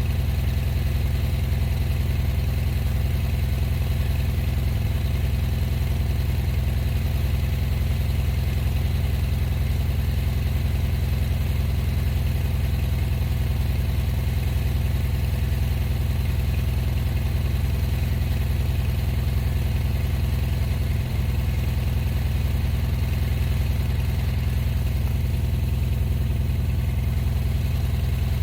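A gasoline engine of the plowing vehicle running steadily at an even speed: a constant low drone with no revving or change in pitch.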